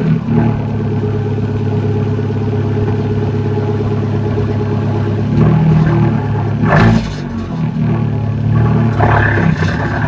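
Abarth 124 Spider's 1.4-litre turbocharged four-cylinder, fitted with a Record Monza exhaust, downpipe and ECU tune, idling steadily with a deep exhaust note. About five seconds in, the throttle is blipped: a short rev near the middle and another rise near the end.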